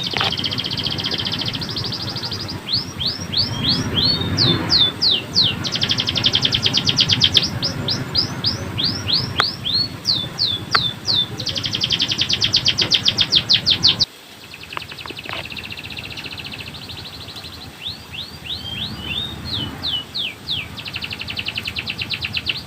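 Male domestic canary singing: long fast rolling trills alternate with phrases of separate, steeply falling notes, over and over. About two-thirds of the way through, the sound drops sharply in level and the song carries on more quietly.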